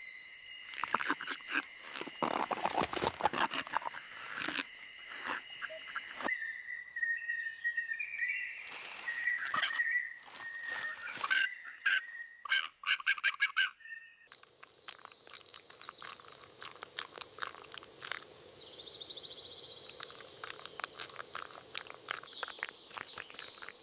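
Wildlife ambience of animal and bird calls with many sharp clicks, changing abruptly at about six and fourteen seconds in.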